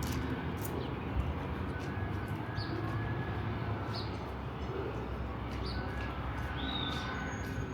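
Busy street ambience: a steady low hum of traffic and city noise, with a bird giving short high chirps about every second and a half.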